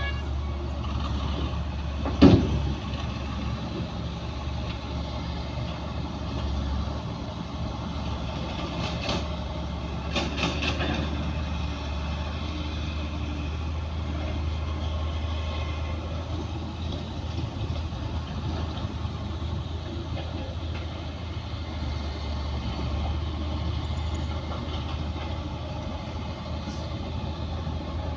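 Bulldozer's diesel engine running steadily with a low drone, with one sharp metallic clank about two seconds in and a few lighter knocks a few seconds later.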